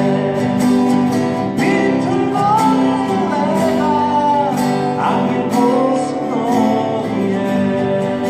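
Live folk music: a strummed acoustic guitar with a wavering, gliding melody line carried above it.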